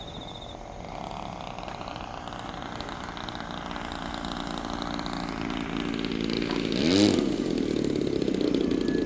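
Radio-controlled model aircraft's engine running in flight, growing gradually louder, with a close pass about seven seconds in where the pitch sweeps.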